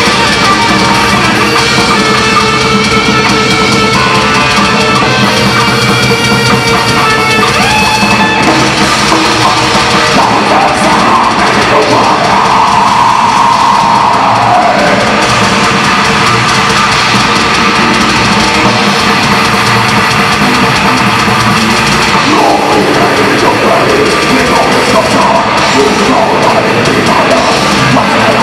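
Heavy metal band playing live: distorted electric guitars over a drum kit, loud and unbroken, with a note held for a few seconds about midway.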